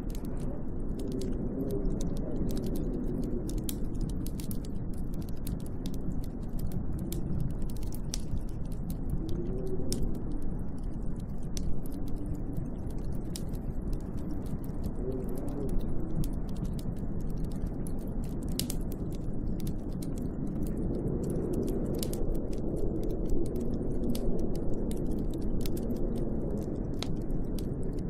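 Snowstorm wind blowing outside a window, a steady low rush that swells and eases in gusts every few seconds, with scattered light ticks and crackles over it.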